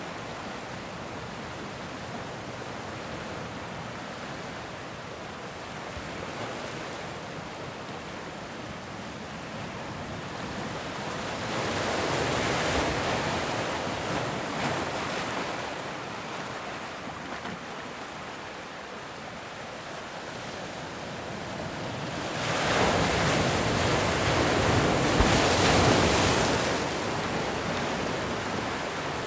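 Ocean waves breaking and washing in, a steady hiss of surf that swells twice, the second and louder wave breaking about 23 seconds in.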